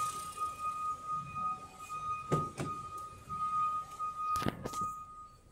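Holden Barina's 1.6-litre Ecotec four-cylinder engine idling, with a steady high whine over its low running sound. Thunks of the car door being handled come about two seconds in and twice more near the end, after which the engine sound drops to a muffled hum.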